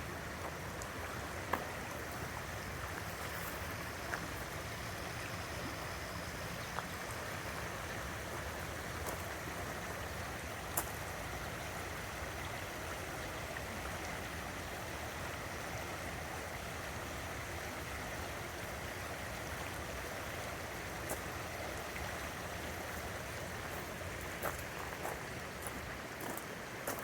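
River water running steadily, with a few sharp clicks scattered through it.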